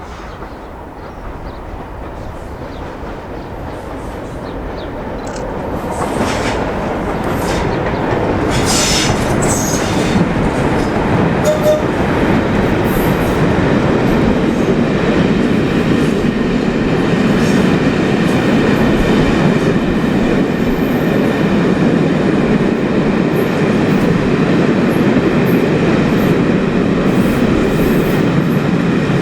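Train running past on the rails, growing louder over the first several seconds, then a steady loud rumble of wheels with some clatter.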